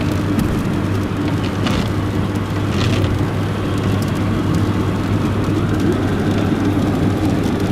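Steady road and engine noise of a moving car heard from inside the cabin: a constant low hum under an even rush of tyre noise.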